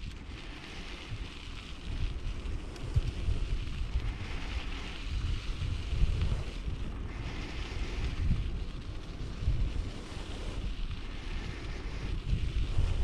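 Wind buffeting the microphone while riding a bicycle: uneven low gusty rumble over a steady hiss.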